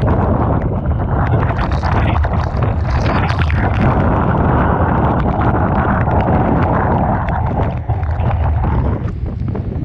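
Typhoon-force wind buffeting the microphone over rough surf and crashing waves, a loud continuous rumbling roar with crackles of spray hitting the camera.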